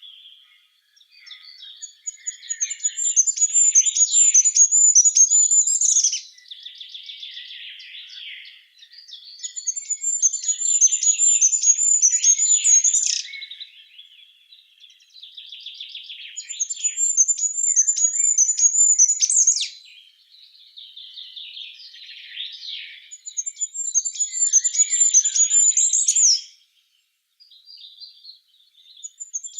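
A songbird singing the same phrase of about three to four seconds four times, a high rapid series of notes ending each time in a short rising flourish, with quieter lower chirping from another bird between the phrases.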